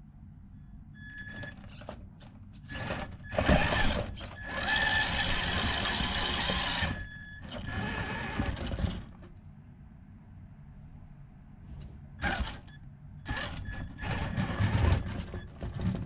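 Underground exhaust vent blowing: a steady low rumble of moving air, broken by irregular louder rushes lasting from under a second to a few seconds. A thin high whistle rises with the rushes.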